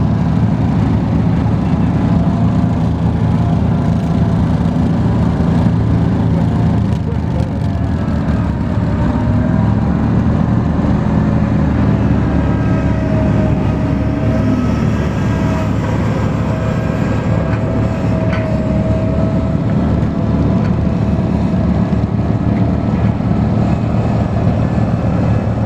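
Garden tractor engine running loud and steady, with a faint whine that wavers gently in pitch through the middle.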